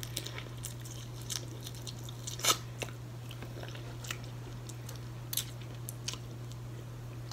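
Close-miked chewing and mouth smacks of a person eating boiled crab and shrimp, with scattered short clicks. A steady low hum runs underneath.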